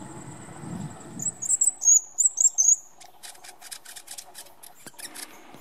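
Small bird chirping: a quick run of short, high, wavering chirps a little over a second in, the loudest sound. Before it, flowing stream water under a steady high whine. After it, soft irregular clicks.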